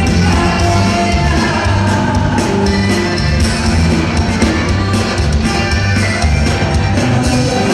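Live band music with a steady, prominent bass line.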